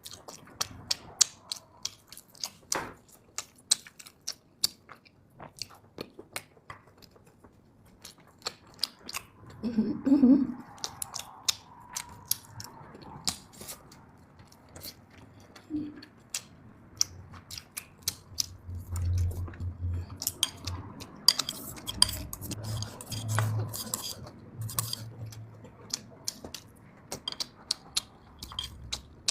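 Close-miked chewing and biting of a large piece of meat, with many sharp, wet mouth clicks and utensils now and then knocking on dishes.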